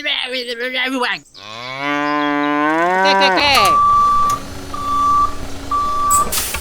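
A cow gives one long moo that rises and then holds. It is followed by three evenly spaced steady electronic beeps, like a vehicle's reversing alarm.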